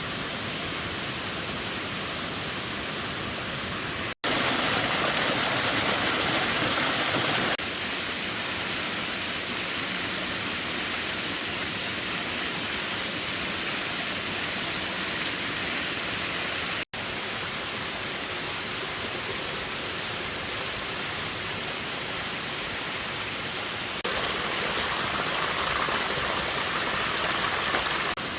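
Steady rush of flowing water, as from a stream or small waterfall, a constant even hiss. It gets louder twice, a few seconds in and again near the end, and breaks off abruptly for an instant twice, at cuts between shots.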